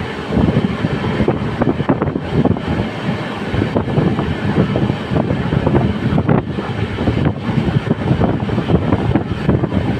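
Train running at speed, heard from on board an LHB coach: the rumble and irregular clatter of the wheels on the track, with wind buffeting the microphone.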